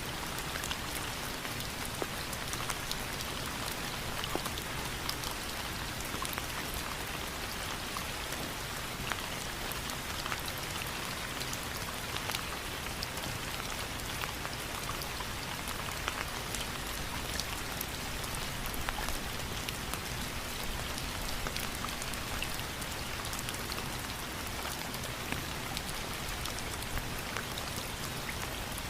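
Steady rain falling, with the close, separate patter of many individual drops striking a surface.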